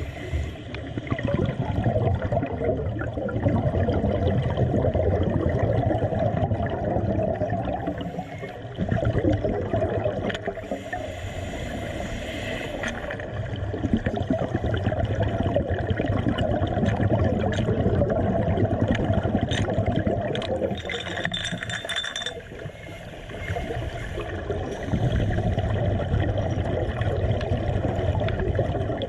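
Water gurgling and sloshing, with scattered small clinks and knocks throughout.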